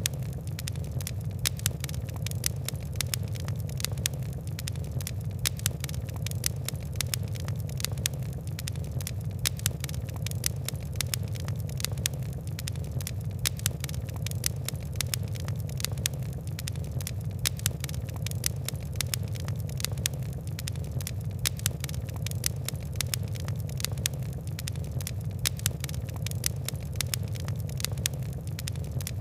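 Fire crackling steadily: a dense run of sharp pops and ticks over a constant low rumble of flame.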